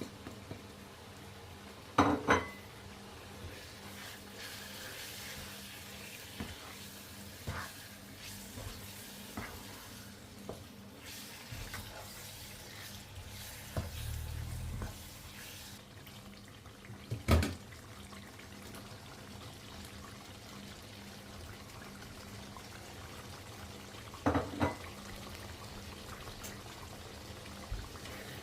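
Kitchen work at the sink: water running from a tap for several seconds, with a few sharp clinks and knocks of dishes and pots set down, the loudest a double knock near the end.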